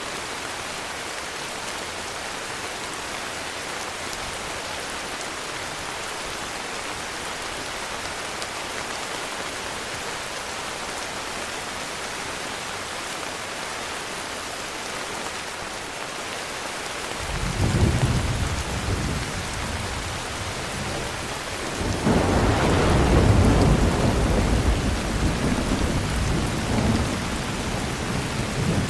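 Heavy rain falling steadily. About two-thirds of the way through, a roll of thunder rumbles low. A few seconds later a second, louder thunderclap rolls on and fades slowly to the end.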